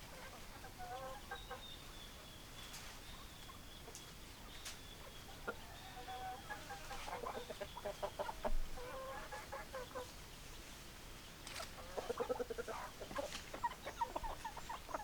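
Hens clucking in several short bouts of quick repeated clucks, busiest in the middle and near the end. A faint thin high tone runs underneath through the first half.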